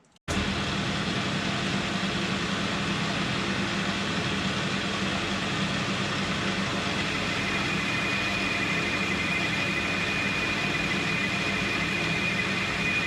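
Metal lathe starting up suddenly and running steadily while a boring bar cuts into the 4140 steel housing. From about halfway a thin, steady high whine comes up over the machine noise.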